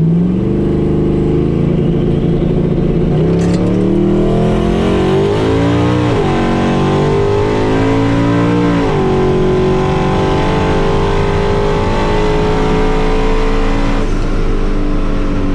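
Twin-turbo LS V8 street truck accelerating hard down a drag strip, its engine climbing in pitch through the gears with upshifts about six and nine seconds in, then pulling steadily high before easing near the end.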